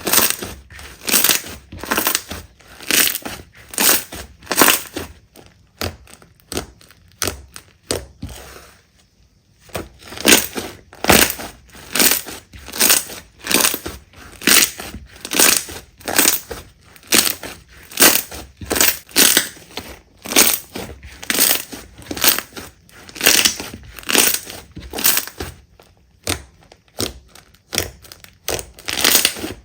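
Slime being squeezed and pressed by hand, making a rhythmic crackling crunch about twice a second, with a short pause about nine seconds in.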